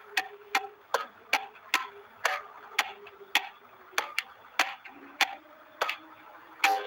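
Steam engine beating in a steady run of sharp clicks, each with a brief ring, slowing from about two and a half a second to under two a second. Near the end a louder click leaves a held tone.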